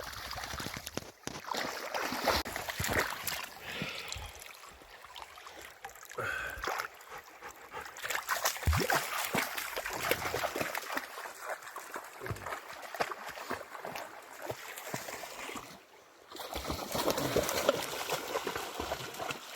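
Creek water trickling and splashing, with many irregular splashes from wading through the shallows, probably a Rottweiler moving through the water.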